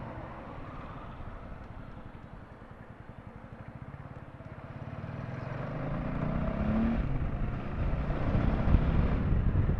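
Honda CBR250R's single-cylinder engine running in slow traffic, its steady low pulsing growing louder through the second half.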